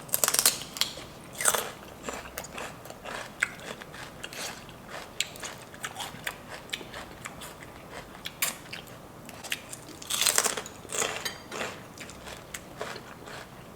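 Raw celery stick bitten and chewed close to the microphone: loud crisp crunches as it is bitten, near the start and again about ten seconds in, with steady crackly chewing between.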